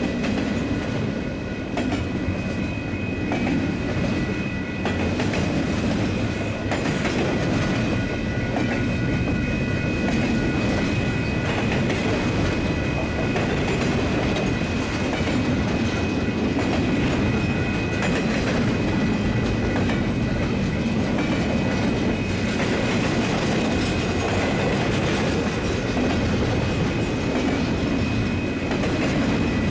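Union Pacific double-stack intermodal freight train's well cars rolling past close by: a steady rumble of wheels on rail with occasional clacks over the rail joints, and a steady high-pitched whine above it.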